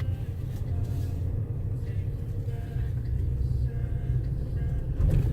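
Low, steady rumble of a pickup truck's engine and road noise, heard inside the cab while driving, with a brief louder knock near the end.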